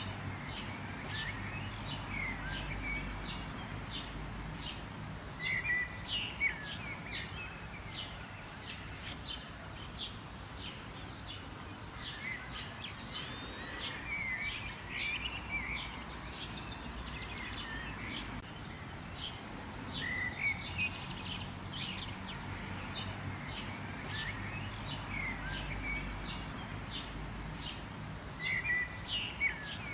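Wild birds chirping and calling, many short quick chirps and brief warbled phrases overlapping, over a steady low background rumble.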